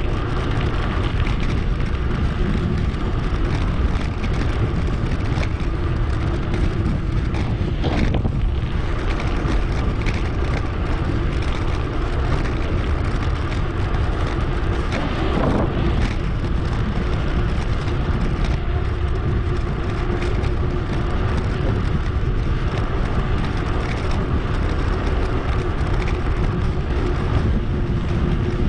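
Steady wind rush on a bicycle-mounted action camera's microphone, with tyre and road noise from the moving bike, sped up to two and a half times normal speed. A brief swell passes by about halfway through.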